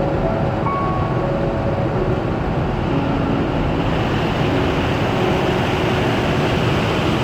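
Steady rushing noise of an automatic car wash at work, growing slightly brighter about four seconds in.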